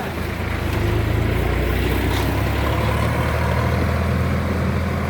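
Sonalika Sikandar DI 50 RX tractor's diesel engine running steadily, growing louder about a second in and then holding.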